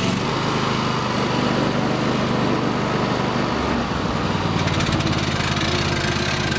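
Portable sawmill's small engine running steadily while milling boards, its note dropping about three and a half seconds in.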